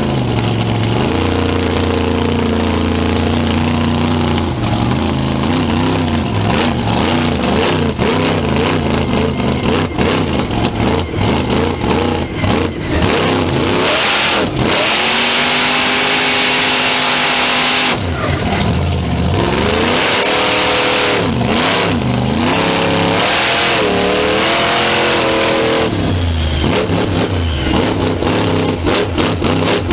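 A vehicle engine revving hard over and over, its pitch sweeping up and falling back many times, loud throughout, with a stretch of steadier rushing noise about halfway through.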